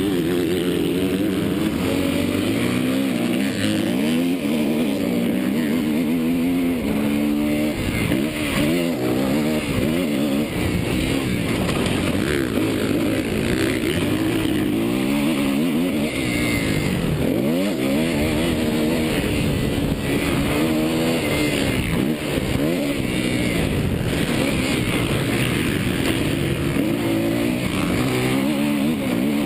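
Suzuki motocross bike's engine being ridden hard, revving up and falling back over and over, the pitch climbing and dropping every second or two with the throttle.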